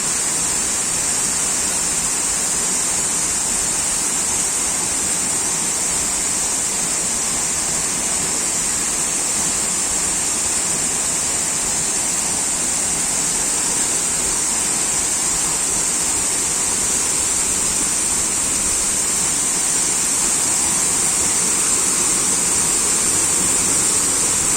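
Waterfall pouring in a steady, unbroken rush of water noise, with a steady high hiss running over it.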